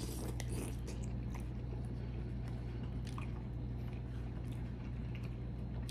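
A person chewing a bite of seafood: sparse, faint wet mouth clicks over a steady low hum.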